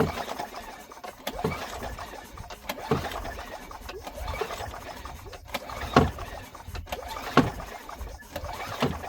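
Recoil starter rope of a Craftsman wheeled string trimmer's small engine pulled again and again, about one pull every second and a half, turning the engine over without it firing. The spark plug is out and brake cleaner has been sprayed in, so the pulls are blowing dust and dirt out of the cylinder.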